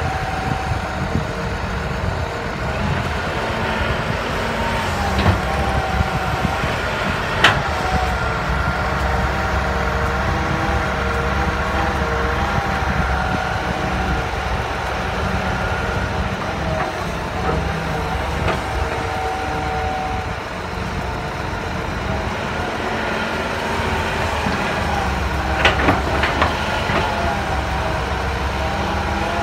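Crawler hydraulic excavator working: its engine running steadily with tones that waver up and down in pitch as it digs and spreads soil, and sharp knocks about seven seconds in and again in a short cluster near the end.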